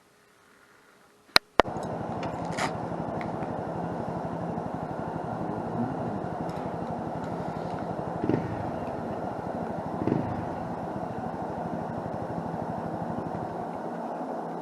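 Two sharp clicks, then a motorcycle engine catches and runs steadily at idle, with two brief swells in the engine sound later on.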